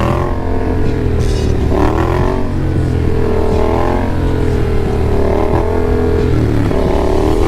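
Yamaha XSR700's 689 cc parallel-twin engine under a riding rider, its pitch rising and falling as the throttle is opened and closed several times.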